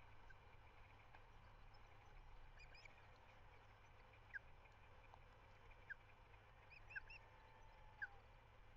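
Faint bird calls: four short, clear downward-sliding chirps about a second apart in the second half, with fainter high chirps, over a low steady rumble of wind on the microphone.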